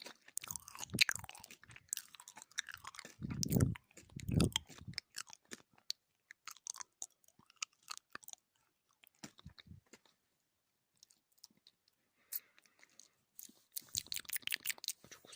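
Close-miked chewing of gummy jelly candy: sticky, wet mouth sounds with crackly clicks and smacks. The chewing goes quiet for a couple of seconds past the middle, then picks up with a quick run of sticky clicks near the end.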